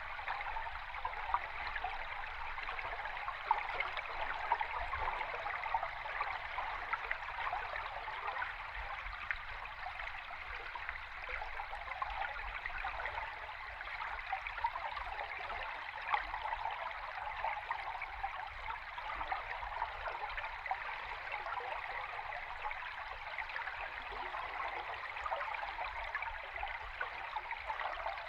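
Flowing river water recorded underwater: a steady, dense rush of bubbling and fine crackling ticks over a faint, uneven low rumble.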